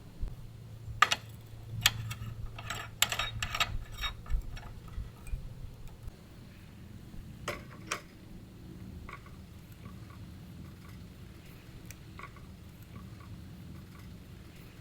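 A quick cluster of sharp clicks and light knocks over the first few seconds, then two more about halfway, over a low steady hum.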